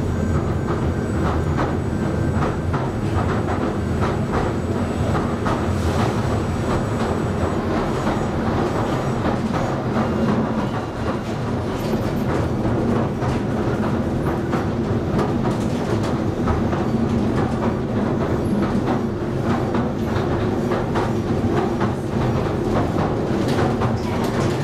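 Interior of a moving Southend Pier Railway passenger carriage: a steady rolling rumble from the train running along the track, with many short clicks and knocks from the wheels and rails.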